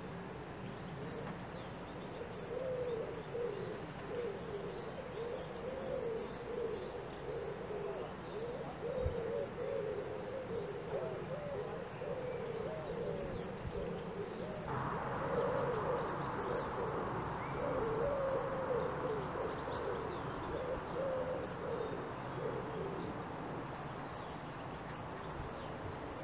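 Birds calling: a long series of low, wavering cooing calls, with faint high chirps of smaller birds over it. About halfway through, a steady hiss comes in.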